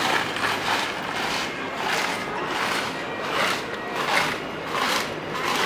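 Busy city street background noise: traffic running past and a general hubbub, swelling and easing every second or so.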